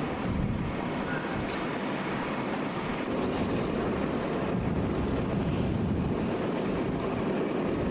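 Strong wind rushing and buffeting the microphone, a steady noise without distinct events.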